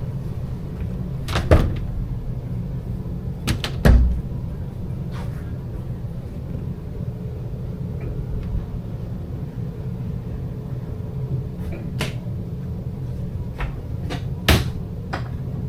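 Cabinet doors in a travel trailer being opened and shut: a few sharp knocks and clicks spread out, the loudest about a second and a half in, about four seconds in, and twice near the end, over a steady low hum.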